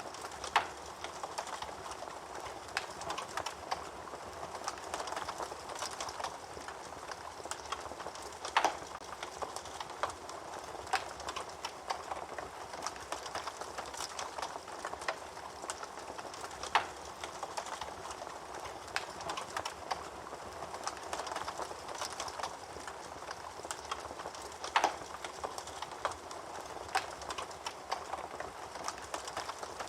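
Wood fire burning in a fireplace: a steady crackle of many small clicks, with a few louder pops from the burning logs.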